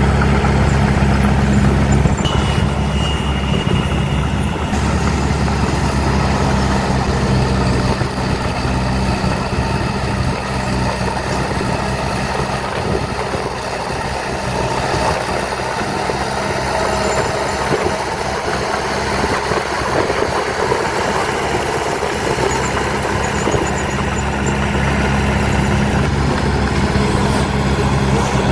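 Heavy diesel engine of earthmoving machinery running steadily near idle. Its low hum is strongest at the start and near the end and weaker through the middle.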